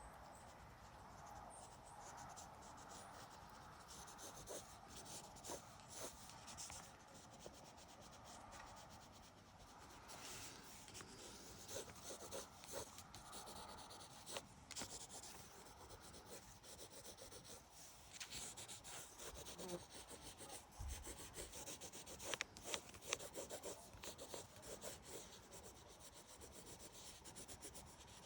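Drawing tool scratching and rubbing across paper in irregular sketching strokes, faint, with a few sharper rasps past the middle.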